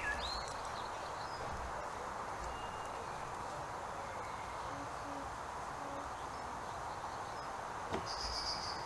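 Steady outdoor background hiss with a few faint, soft low hoots from a bird near the middle.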